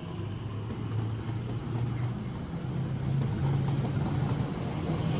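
Class 345 electric multiple unit pulling away from a station, its traction motors giving a low hum that climbs slowly in pitch and grows louder.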